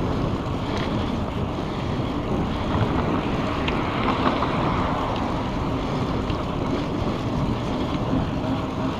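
Steady wind rushing over the microphone of a moving bicycle, with a continuous rumble of road and traffic noise underneath.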